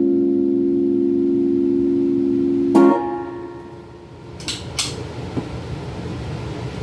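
A final chord on a Donner semi-hollow electric guitar rings out through a Peavey Backstage Plus amp and is cut off with a click about three seconds in as the strings are muted. Two sharp clicks follow a couple of seconds later, then the amp's steady hiss and hum.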